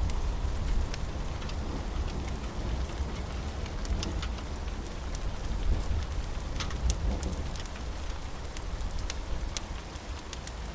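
Steady rain with a low rumble underneath and scattered sharp crackles of a wood fire.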